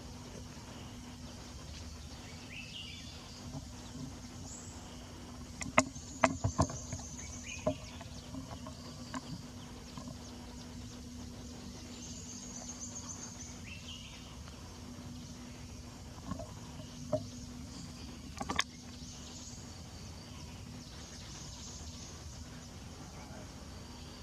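Outdoor ambience of insects buzzing in high patches that come and go, over a steady low hum. A cluster of sharp clicks or knocks comes about six seconds in, and a few more come near eighteen seconds.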